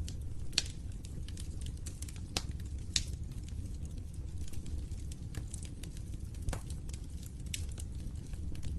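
Wood fire burning in a fireplace: irregular sharp pops and crackles over a steady low rumble of the flames, with a few louder snaps.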